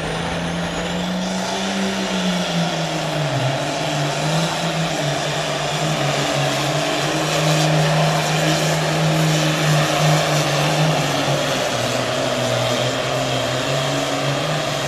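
Outlaw super farm pulling tractor's turbocharged diesel engine running hard under load. Its pitch climbs about two seconds in, drops a second later, then holds fairly steady, with another dip near the end.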